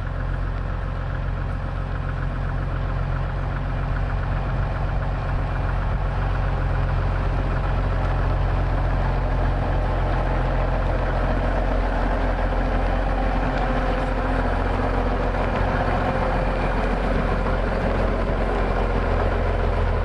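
Kenworth SAR truck's diesel engine running steadily, getting a little louder a few seconds in.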